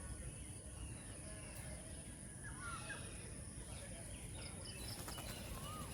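Faint birds chirping: a few short curving call notes and a quick series of high pips. These sit over a steady high-pitched whine and a low outdoor background rumble.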